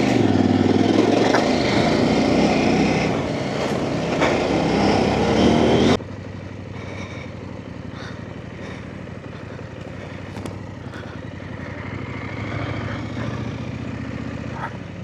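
Off-road trail motorcycle engine revving hard under load for about six seconds. The sound then drops suddenly to a quieter, steady engine note.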